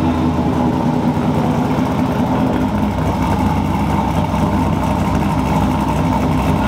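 Car engine running steadily through a freshly fitted dual exhaust, holding an even pitch with no revs.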